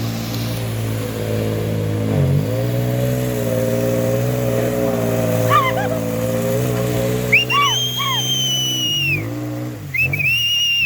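A Toyota 4x4's engine runs hard under load as the truck pushes through a deep mud pit, its pitch dipping and picking back up twice. Shrill gliding whistle-like tones come in over it briefly midway and near the end.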